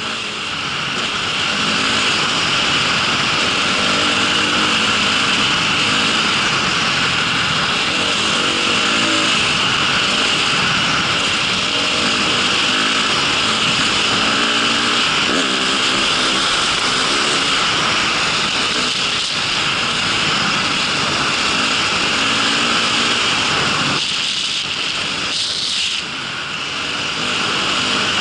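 Motor vehicle driving, its engine running steadily under a constant hiss of travel noise. The engine note wavers up and down, and the sound eases briefly near the end before picking up again.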